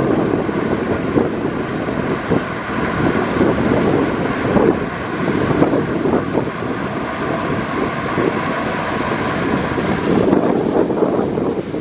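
Heavy earthmoving machinery's diesel engine running steadily.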